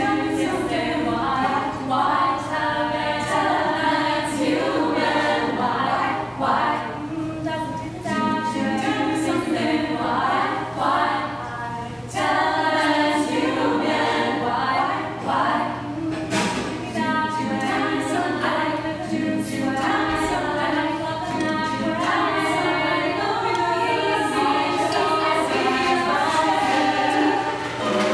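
Group of voices singing a cappella in close harmony, several parts at once with no instruments standing out.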